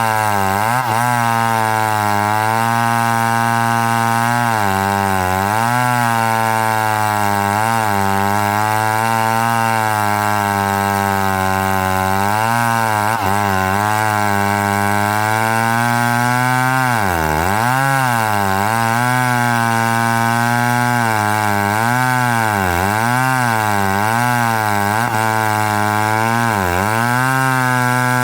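Chainsaw running at high throttle while cutting wood, its pitch dipping and recovering again and again as the chain bites in and loads the engine. The dips become deeper and more frequent in the second half.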